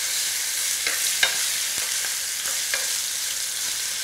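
Chicken pieces sizzling as they sear in hot oil in a pan, with several light clicks of plastic utensils knocking the pan as the pieces are turned.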